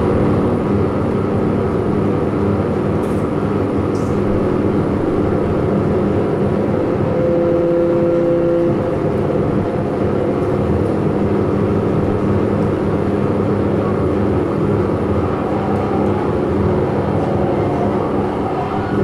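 Loud, steady rumbling drone of improvised experimental noise, with a held low hum underneath. Two higher held tones sound together for a moment about seven seconds in.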